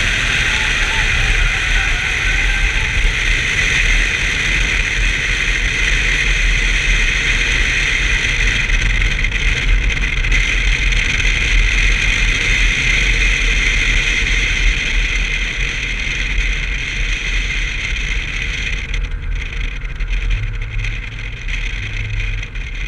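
1990 BMW 325i's inline-six engine running steadily under way, mixed with steady road and wind noise. The higher part of the noise falls away and the level drops a little near the end.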